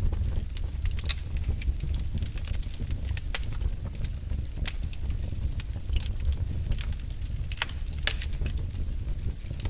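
Fire burning in a fireplace: irregular sharp crackles and pops, a few a second, over a steady low rumble of the flames.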